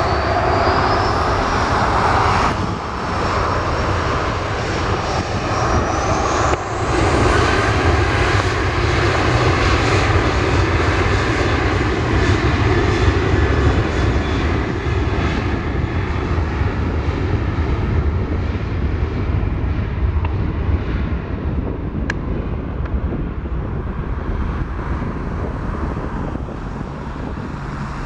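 Boeing 737 jet engines spooling up to takeoff thrust: a high whine rises twice in the first seven seconds, then gives way to a steady loud jet roar that slowly eases off near the end.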